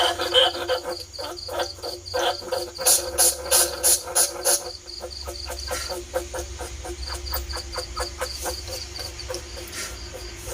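Rapid chattering and squeaking calls of bandicoot rats, played as a lure for rats. The calls are busiest and loudest in the first half and thin to quieter ticking about halfway, over a steady high chirp repeating about four times a second and a low hum.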